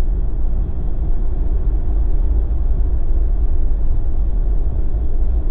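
Jeep driving on a snow-covered road: a steady low rumble of tyres and engine.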